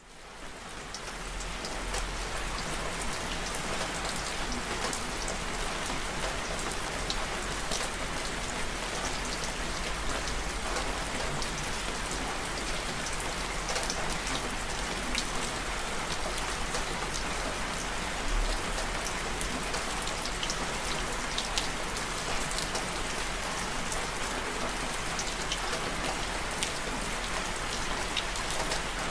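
Steady rain falling, with individual drops ticking sharply through the even hiss; it fades in over the first couple of seconds.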